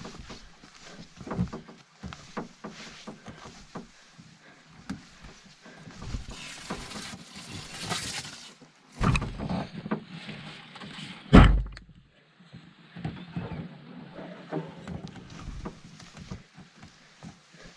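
Knocks and water sounds from a canoe being paddled or handled, with a heavy thunk about eleven seconds in.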